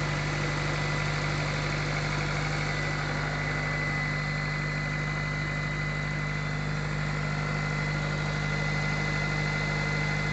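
1995 Acura Integra GS-R's 1.8-litre DOHC VTEC four-cylinder idling steadily just after a cold start in deep cold, still warming up, with a thin steady high whine over the engine note.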